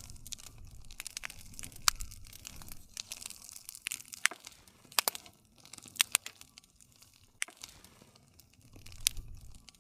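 Campfire crackling: wood burning with irregular sharp pops and snaps over a low, steady rumble of the flames.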